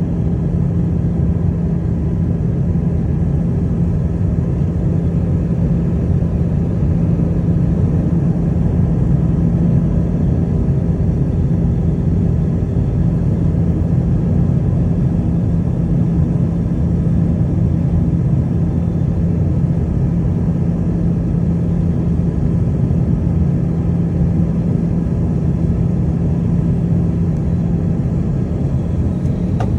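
Steady cabin drone of an Airbus A320 in motion: engine noise and rushing air, with a steady low hum, heard inside the passenger cabin.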